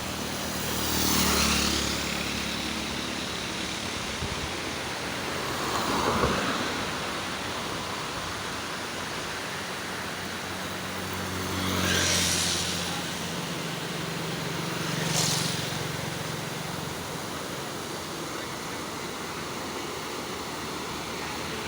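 Steady rush of rain-swollen flowing water, with vehicles passing by on the road four times, each swelling up and fading away.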